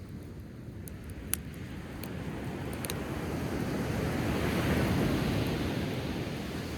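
A sea wave rolls in and washes up the shore. It builds to a peak a little past the middle and then ebbs away. Two or three sharp crackles from a driftwood campfire come in the first half.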